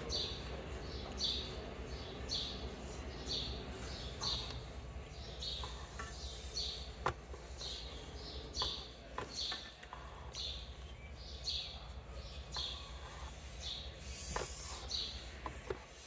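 A bird chirping over and over, a short high chirp roughly every three-quarters of a second, with a few light knocks and clicks in between.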